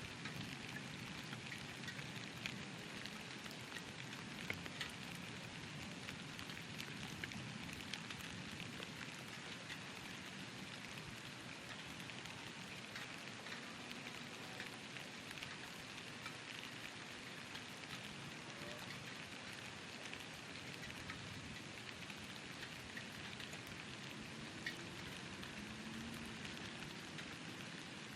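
Steady rain falling, a soft even hiss with scattered sharper drop ticks; no thunder is heard.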